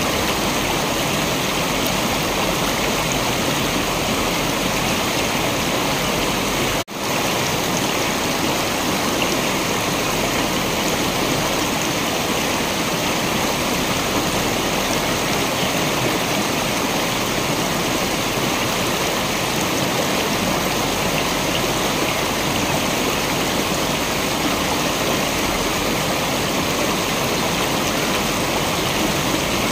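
Waterfall water rushing in a steady, dense roar, with one momentary dropout about a quarter of the way in.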